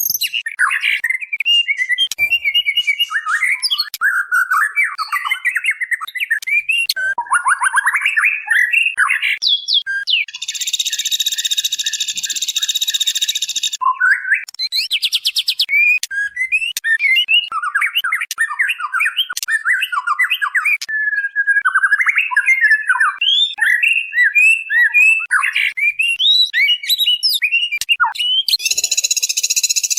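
Female white-rumped shama calling: a fast, unbroken string of short, varied chirps and chatter, broken about ten seconds in by a harsh buzzing rasp lasting some three seconds, with another starting near the end. It is a lure call meant to draw a male shama to answer.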